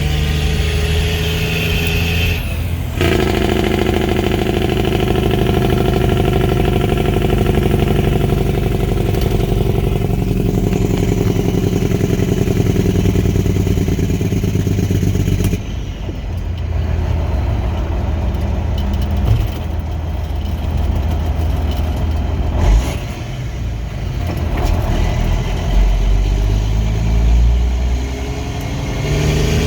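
Straight-piped Kenworth T800 diesel engine with its engine (Jake) brake on, a loud, steady rattling exhaust note for about the first half. Partway through the sound changes abruptly to a lower, rougher engine sound with a few sharp knocks. Near the end the engine climbs in pitch.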